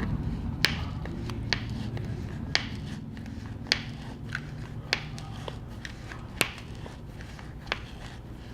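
Small, sharp, irregular clicks and ticks of a plastic pry tool working under a laptop's glued battery cells, over a low steady hum.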